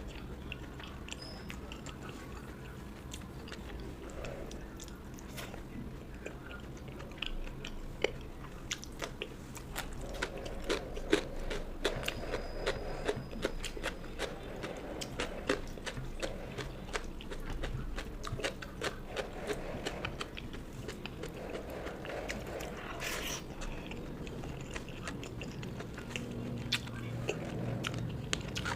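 Close-miked chewing and biting of food, with many small crunches and wet clicks. The meal is rice with fish curry, fish bharta, dal, fried bhaja and cucumber.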